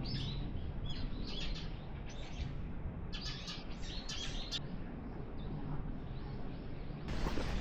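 Small birds chirping in short, high, repeated calls over a low steady background rumble. Near the end a louder, steady rushing noise comes in.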